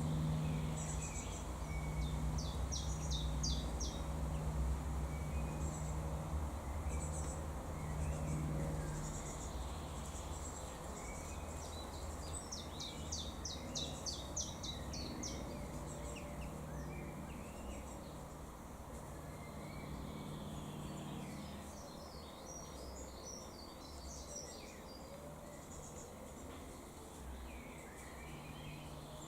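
Small birds chirping, with several short rapid trills, over a steady low hum and rumble.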